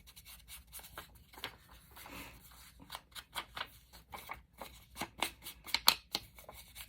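Paper being distressed by hand: an irregular run of short, quick scraping and rubbing strokes on paper, several a second, with one sharper stroke near the end.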